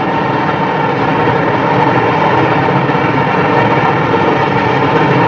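Long freight train's cars rolling across a steel girder bridge: a steady, even noise of wheels on rails.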